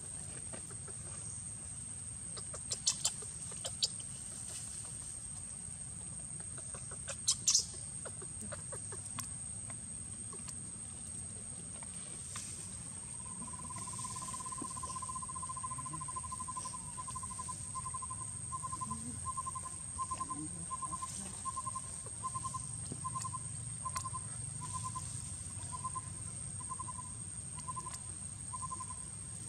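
Outdoor ambience with a steady high-pitched insect drone, a few sharp clicks early on, and, from about halfway, a bird calling one short note over and over, about one and a half notes a second.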